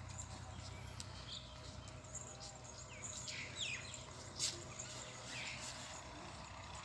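Quiet outdoor background: several short, quick bird chirps, mostly between about three and five and a half seconds in, over a steady low hum.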